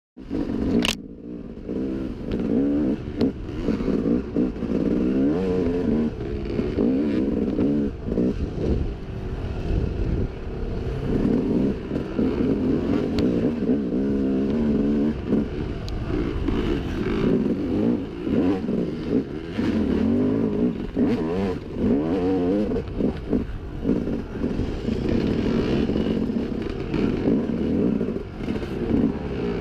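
Dirt bike engine running under way, its pitch rising and falling as the throttle opens and closes, with knocks and rattles throughout. A sharp click comes just as the sound begins.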